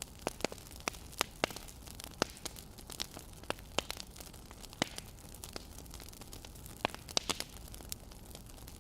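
Wood fire crackling, with irregular sharp pops a few times a second over a low steady hiss.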